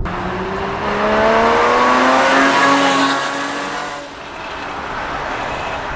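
Porsche Cayman's naturally aspirated flat-six, fitted with aftermarket headers and K&N air filters, accelerating hard with its engine note climbing steadily, then dropping away about four seconds in.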